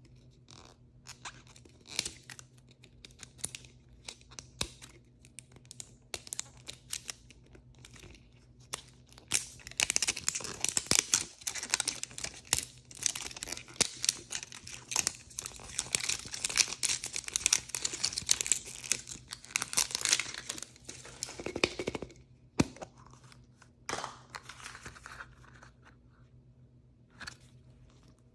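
Blind-bag toy packaging being handled and torn open. It starts with scattered light taps and rustles, then for about ten seconds there is dense crinkling and tearing of the wrapper, and it falls back to a few light clicks near the end.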